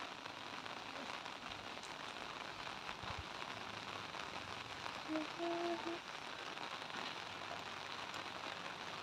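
Light rain falling steadily on a wet paved lane and roadside grass: an even hiss of drops with scattered small ticks. A brief faint tone sounds about five seconds in.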